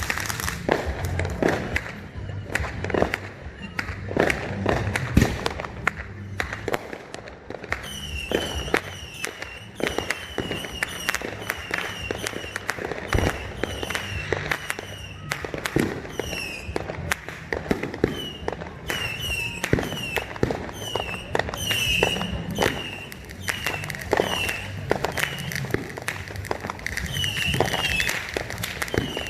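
Fireworks going off: a steady run of bangs and crackling pops of exploding shells.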